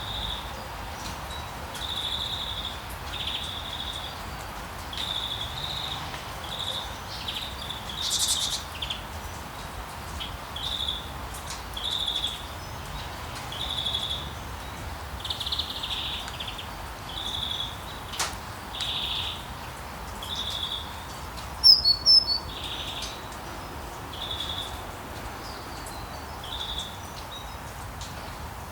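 A songbird repeating a short chirp every second or two over a steady hiss of rain, with a brief, louder burst of higher, sharper notes about three-quarters of the way through.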